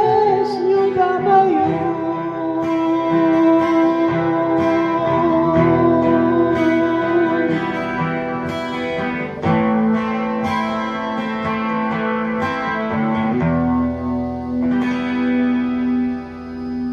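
Guitar playing the closing bars of a Russian rock ballad: the singer's last word is held with vibrato for the first couple of seconds, then picked guitar notes carry on alone and die away near the end.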